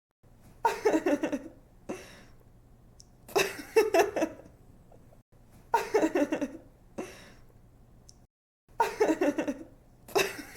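A woman's giggling laugh in short bursts of quick pulses. The same laugh comes back about every two and a half to three seconds, four times over, with a fifth starting at the very end.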